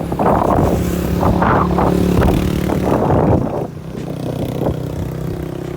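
A motor vehicle engine running steadily, loudest for the first three and a half seconds, then quieter.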